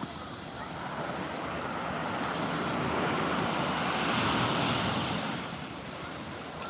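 Ocean surf washing onto a beach, a steady rush that swells to its loudest about four seconds in and then eases off.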